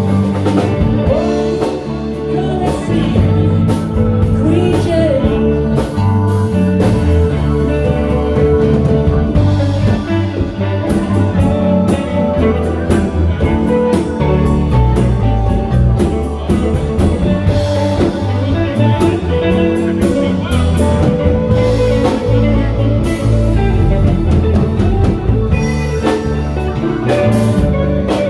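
A live band playing a song: electric guitar over bass and drums, with a loud, steady full-band sound.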